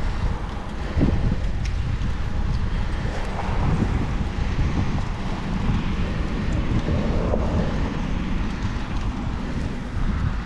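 Wind buffeting the microphone of a camera riding along on a moving fixed-gear bicycle, heard as a steady low rumble.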